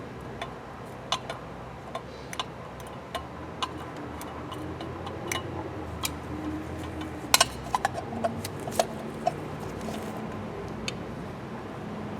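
Small metal carburetor parts clicking and clinking irregularly as the two halves of a two-barrel Holley carburetor are handled and fitted together, with a quick cluster of sharper clicks about seven seconds in. A faint steady hum runs underneath.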